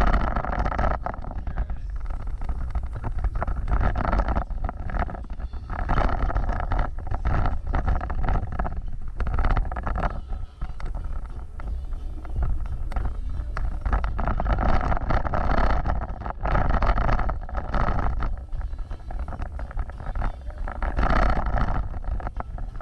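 Off-road vehicle running as it drives, its engine note swelling and easing off every few seconds, with heavy wind rumble on the microphone.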